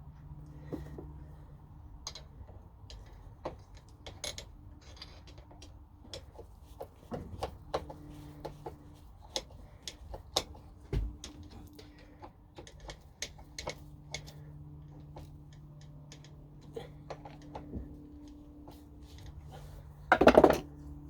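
Irregular small metal clicks and taps of a screwdriver, screws and a vise jaw plate being handled while a jaw is removed and refitted on a bench vise, with a louder clatter near the end. A faint steady low hum runs underneath.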